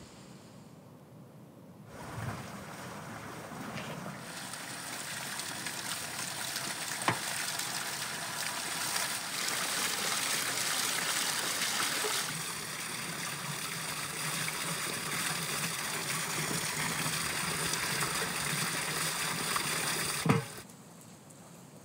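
Water pouring from a spout onto raw chicken drumsticks in a metal colander, splashing and draining through as they are rinsed. It starts about two seconds in and cuts off near the end, with a sharp knock about seven seconds in and another just before it stops.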